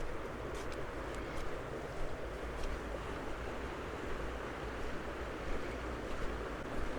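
Mountain creek running steadily beside the trail, a constant rushing of water, with a few faint clicks.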